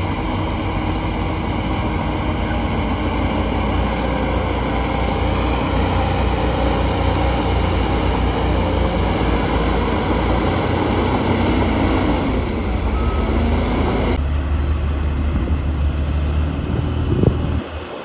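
Heavy diesel earthmoving machinery running steadily under load, a deep, low engine drone. Near the end it briefly gets louder, then drops away suddenly.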